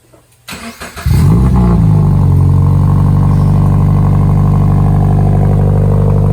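Subaru BRZ's flat-four boxer engine being cranked and catching about a second in, breathing through a worn, second-hand D-Spec aftermarket exhaust. The revs flare up and drop back, then settle into a loud, steady idle.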